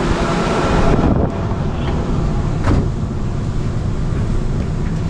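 Seoul subway train running, a steady loud rumble and rush of noise, with a brief knock about two and a half seconds in.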